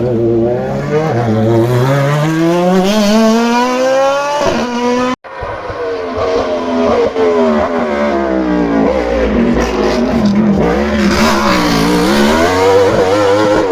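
Hillclimb race car engine at full throttle. It rises steadily in pitch as it accelerates, then an abrupt cut about five seconds in gives way to another run of engine sound that drops and climbs again through the gears.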